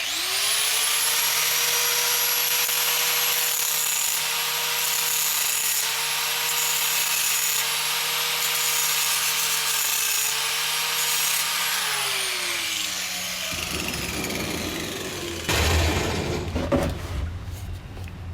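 Angle grinder starting up and grinding down a steel bucking-dog plate, a steady high whine over a rasping hiss, then winding down after about twelve seconds. Rougher scraping and a few knocks of the metal part being handled follow near the end.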